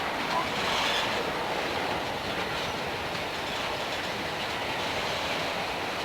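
Freight train cars rolling steadily past on the rails.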